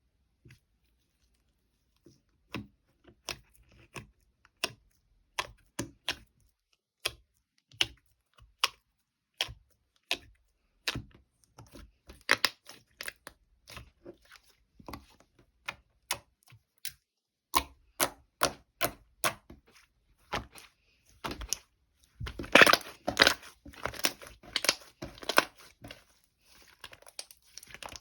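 Irregular sharp crackles and crinkles, about one or two a second, like something being torn or crumpled, then a denser, louder run of crinkling a little over three quarters of the way through.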